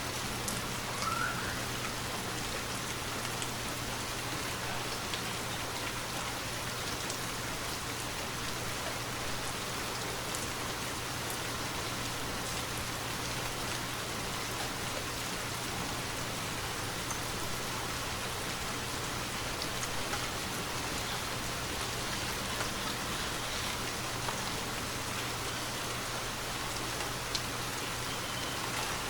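Steady rainfall, an even hiss with scattered sharp drop ticks, over a faint low steady hum.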